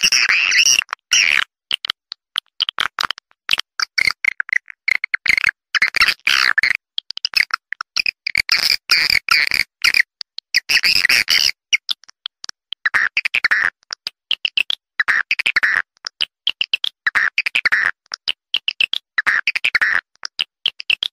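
Swiftlet calls from a swiftlet-house lure recording: rapid chirping twitters in bursts, with short breaks between them, played to call swiftlets in to nest.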